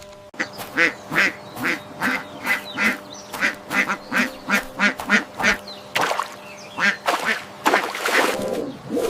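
Duck quacking in a rapid series of short calls, about two or three a second, with a few louder calls near the end.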